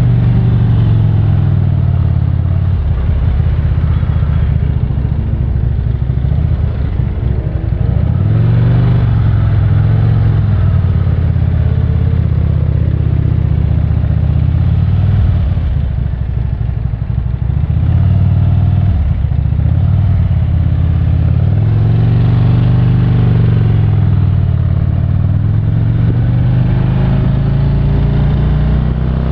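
Harley-Davidson touring motorcycle's V-twin engine running at low speed in traffic. Its pitch rises and falls several times as the throttle is opened and closed, most clearly from about 8 s onward.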